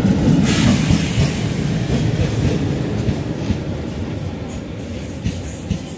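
A WDM-series ALCO diesel-electric locomotive runs close past, its engine rumbling loudest in the first second. Then the passenger coaches roll by with a clickety-clack of wheels over rail joints and scattered sharp clanks, slowly fading.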